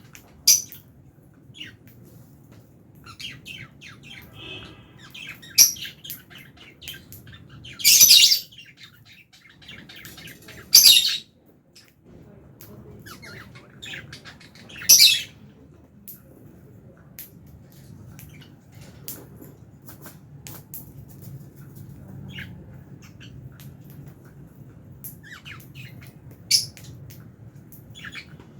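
A flock of lovebirds (Fischer's and albino lovebirds) chirping, with about six loud, sharp shrieks scattered among the quieter chirps, the longest ones around a third of the way in.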